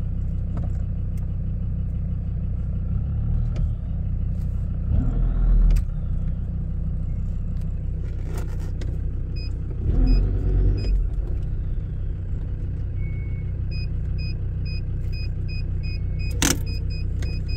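Land Rover Discovery 2 engine idling steadily, heard from inside the cab, while the transfer box and centre diff lock lever is worked: two clunks of the linkage about five and ten seconds in and a sharp click near the end. A quick run of short high beeps sounds over the idle in the later part.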